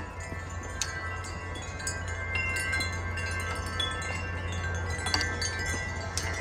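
Wind chimes ringing continuously in gusty wind, their tubes struck many times over, with a steady low wind rumble underneath.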